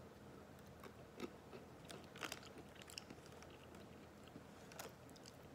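Faint crunching and chewing of dry, uncooked instant ramen noodles, a scatter of short crisp crunches as the hard noodle pieces break between the teeth.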